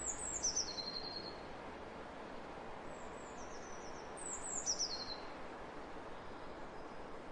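A small songbird singing short phrases of quick high notes that step downward in pitch, three times (the middle one fainter), over a steady hiss of wind across open fields.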